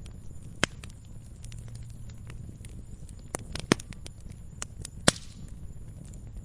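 Wood fire in a fireplace crackling, with a few sharp pops, the loudest about five seconds in, over a low steady rumble of the burning.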